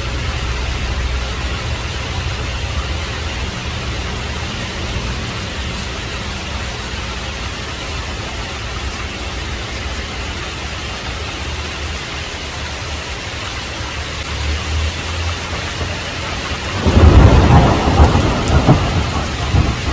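Heavy rain falling steadily with a low rumble of thunder underneath. Near the end a loud thunderclap breaks and rolls on.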